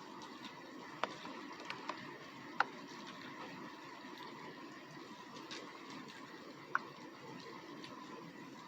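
Rain falling: a steady soft hiss with a handful of individual drops striking sharply, the loudest about two and a half seconds in.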